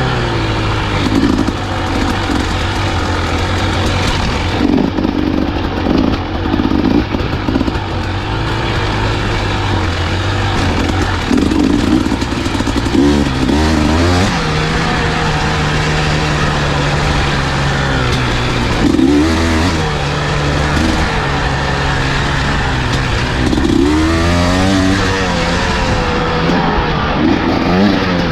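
Husqvarna enduro dirt bike engine running on a trail ride, its pitch rising and dropping with throttle and gear changes, with several quick blips of revs.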